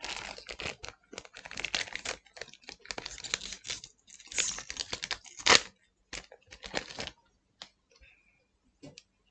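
Trading-card booster pack wrapper being torn open and crinkled for about seven seconds, the loudest rip a little past five seconds in, followed by a few light clicks as the cards are handled.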